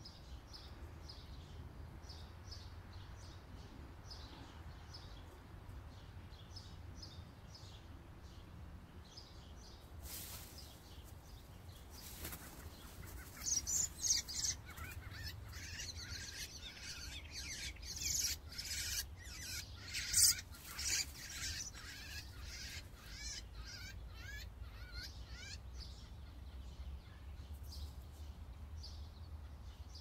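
Small birds chirping in short, quick repeated calls, then about halfway through a stretch of wing flapping and louder calls from a bird caught in a mist net, over a steady low rumble.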